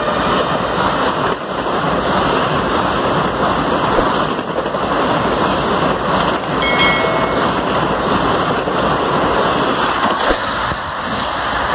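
Vande Bharat Express electric multiple-unit trainset passing close by at speed: a loud, steady rushing noise of wheels and air.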